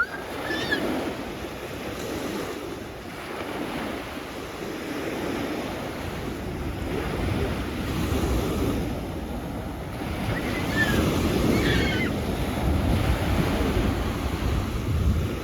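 Sea waves washing onto the shore in slow swells that rise and fall, louder in the second half, with wind rumbling on the microphone.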